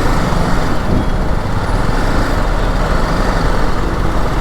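Motorcycle ride in traffic: steady engine and road noise from a BMW G 310 GS, with other vehicles around.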